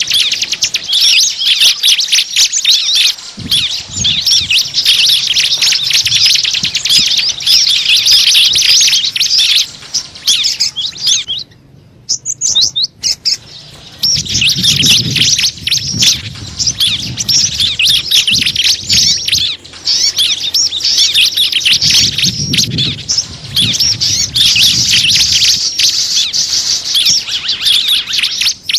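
Small birds chirping in a dense, rapid chatter of high, twittering notes, played as a lure call to draw small birds in. The chatter breaks off for about two seconds a little before the middle, and a low rumble sounds underneath now and then.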